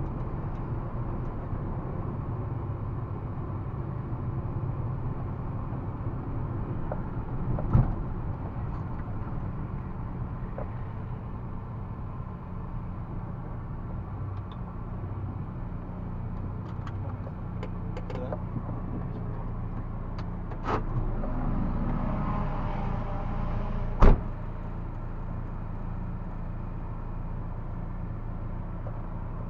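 Citroën Saxo 1.6 VTR's eight-valve four-cylinder engine running at fairly even revs, heard from on board the car. Two sharp knocks cut through it, one about 8 seconds in and a louder one about 24 seconds in.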